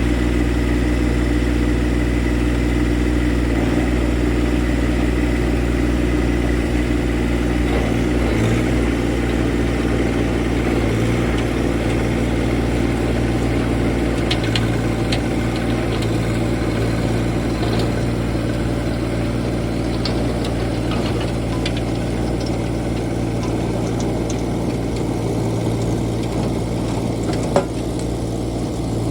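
A John Deere 2025R compact tractor's three-cylinder diesel engine running steadily under load, driving a rear rototiller. There are scattered light clicks in the middle and one sharp click near the end.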